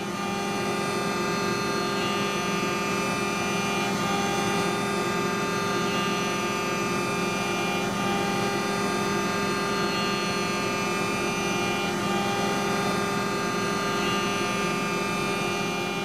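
Mori Seiki NT450 CNC mill-turn centre running steadily while machining 7075 aluminium: a constant hum with a steady high whine over it.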